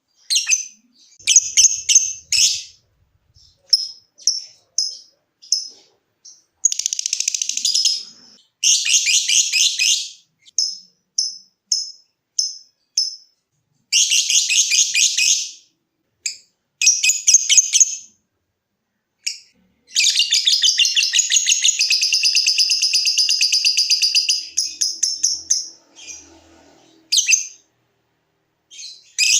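Lovebird singing: runs of short, sharp chirps (the 'ngetik' ticking) alternate with fast, rattling chatter (the 'ngekek' song). The longest chatter lasts about five seconds, starting about two-thirds of the way in.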